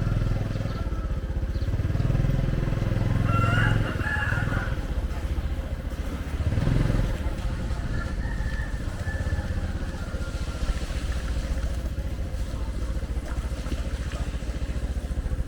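Motorcycle engine running steadily with a low, even pulsing rumble.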